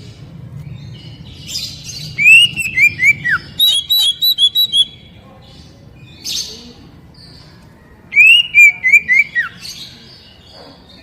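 Oriental magpie-robin (kacer) singing loud, clear whistled phrases twice. Each phrase is a rising note followed by several quick downward-slurred notes; the first is followed by a run of rapid repeated higher notes.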